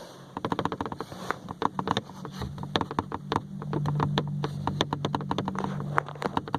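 Driver-side windshield pillar trim moulding of a new Ford Ka rattling in quick, irregular clicks as the car drives over a rough road. The loose moulding is vibrating against the bodywork, the fault the owner cures with automotive foam packed between moulding and body. A low steady hum from the car runs under the rattle from about two seconds in until near the end.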